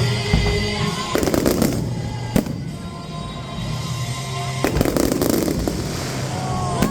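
Aerial fireworks going off. There are two spells of rapid crackling and single sharp bangs about two and a half seconds in and near the end, with music playing underneath.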